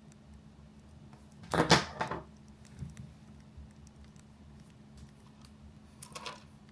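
A short clatter of something handled on a desk, about a second and a half in, and a softer one near the end, over a low steady hum.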